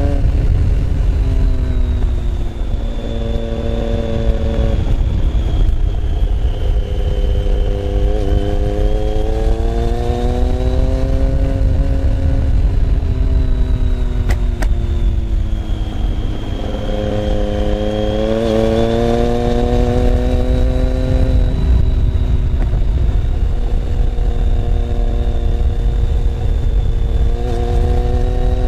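Motorcycle engine heard from onboard, its note climbing and dropping several times as the bike accelerates and slows, then holding steady near the end, over a heavy low rumble.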